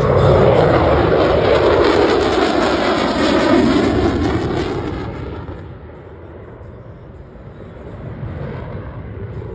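Jet aircraft flying past. A loud roar for about five seconds with a sweeping shift in pitch, then fading as it moves away.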